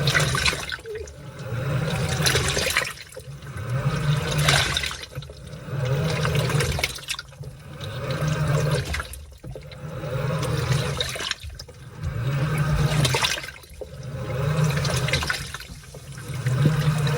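Washing machine in its wash cycle, churning laundry through water: a motor hum and water sloshing rise and fall in even swells about every two seconds as the wash action turns one way, then the other.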